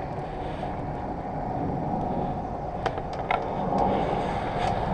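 Steady low rumble of a car running, with a few light clicks about three seconds in.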